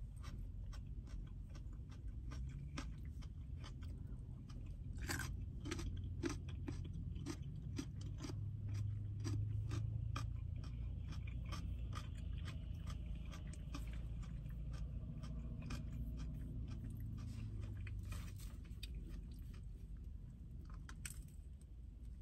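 Close-miked chewing of raw carrot sticks: many crisp crunches, one clearly louder about five seconds in and another near the end, over a steady low rumble.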